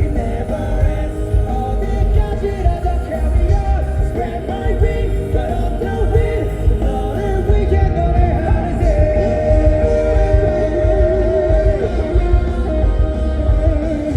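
Live rock band playing loud, heard from the audience, with heavy bass and drums under singing.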